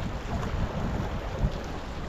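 Wind buffeting the microphone, over sea water lapping and splashing around a sea kayak.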